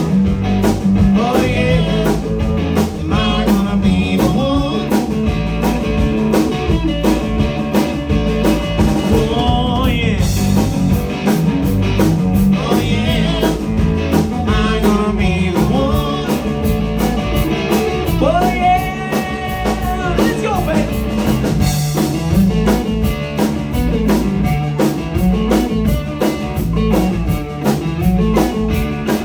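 Live blues-rock band playing: electric guitar over bass notes and drums keeping a steady beat.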